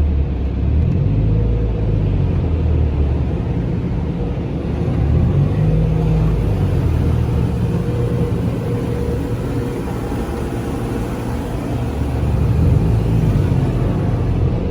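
Steady low rumble of a car running, most likely the Mitsubishi Lancer Evolution X's turbocharged four-cylinder, with a light hiss above it. The rumble swells and eases slightly but does not rev.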